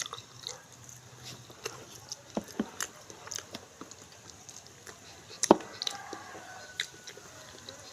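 Close-miked eating: scattered sharp bites and crunchy clicks of chewing, the loudest about five and a half seconds in.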